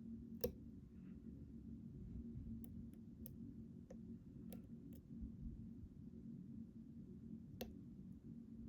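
Scattered faint clicks of a hook pick working the pins inside a Ruko 600 lock cylinder, about seven over several seconds, over a steady low hum.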